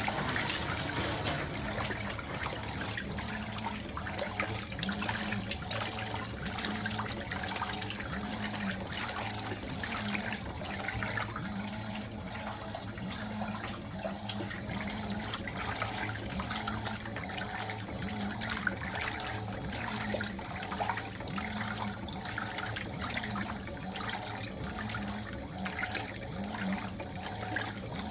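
Fisher & Paykel MW059NZ washing machine running a darks wash: a steady rush and slosh of water in the tub over a low hum, with a faint low pulse recurring every second or two.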